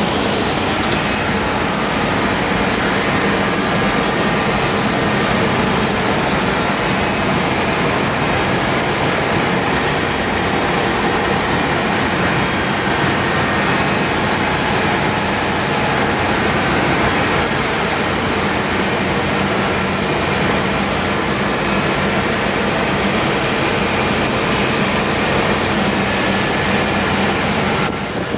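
Bulk carrier's engine room machinery running: a loud, steady mechanical din with a constant high whine over it.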